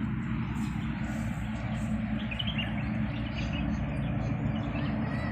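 Steady low outdoor rumble with a hiss over it, and small birds chirping a few times, about two seconds in and again near the end.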